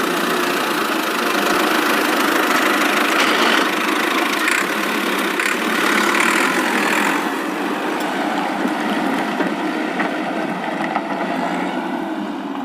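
Steady engine-running sound of a toy truck.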